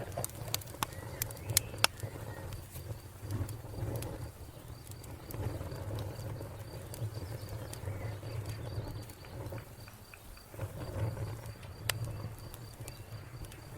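Wood fire crackling, with sharp irregular pops and snaps, over a steady high cricket chirp and a low rumble that swells and fades every few seconds.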